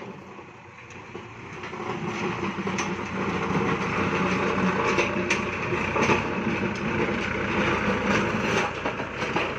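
Kubota tractor's diesel engine running under load, growing louder over the first two seconds and then holding steady, with a few sharp clanks over it.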